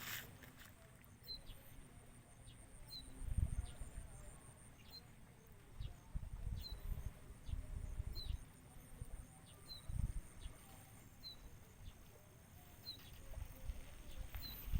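A ciblek (prinia) giving a short, high chirp over and over, about once a second, against a faint steady high-pitched hum. Low rumbles on the microphone come and go.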